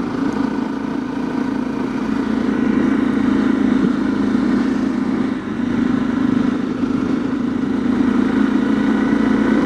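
Honda CRF250L dual-sport motorcycle's single-cylinder four-stroke engine running steadily while riding, with a haze of rushing noise over it. The engine note eases briefly about five and a half seconds in and picks up again.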